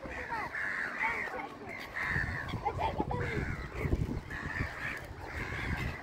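Birds calling again and again with harsh caws and squawks, over a low rumble.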